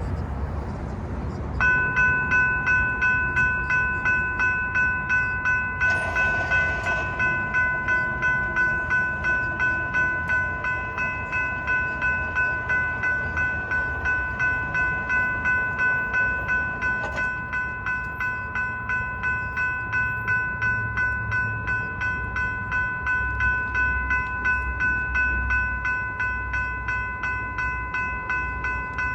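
Railroad grade-crossing warning bell starts ringing about a second and a half in and keeps ringing in a rapid, even rhythm as the crossing activates for an approaching train. A low rumble builds underneath toward the end.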